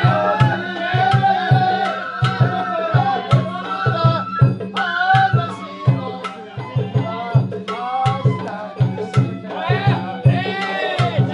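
Sawara-bayashi festival music from a float: Japanese bamboo flutes play a sliding, ornamented melody over fast, repeated taiko drum strokes.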